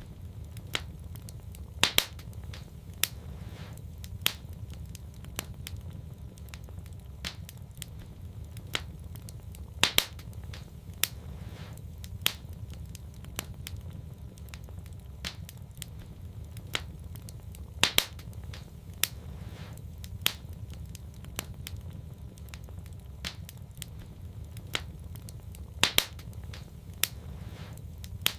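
Wood fire in a fireplace crackling, with scattered sharp pops over a steady low rumble of the flames.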